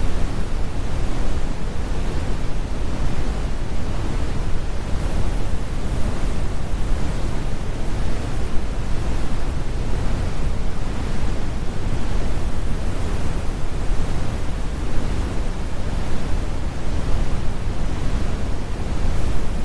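Steady synthetic brown noise: a deep, even rumble with the highs rolled off, with no changes or events.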